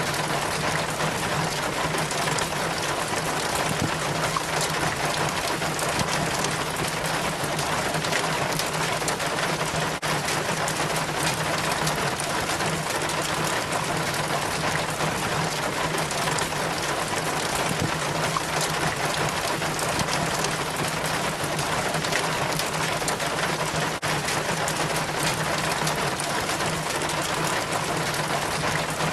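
Rainwater trickling and splashing down a rain chain from the gutter, a steady patter of drips and running water with many small splashes, under steady rain.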